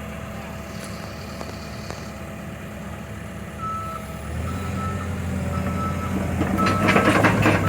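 Cat 313 hydraulic excavator's diesel engine running, growing louder as it takes load about four seconds in, while its warning alarm beeps repeatedly at one steady pitch from about halfway through. Near the end a louder, clattering noise rises over the engine.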